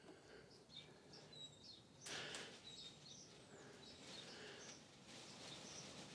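Near silence: quiet room tone with faint, scattered bird chirps and a brief rustle about two seconds in.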